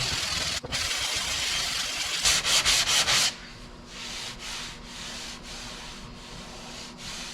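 Hand block sanding of cured body filler on a car door panel. Sandpaper rasps loudly and steadily for about three seconds, ending in a quick run of short strokes. The rest is lighter, evenly spaced strokes about two a second as the filler is knocked down.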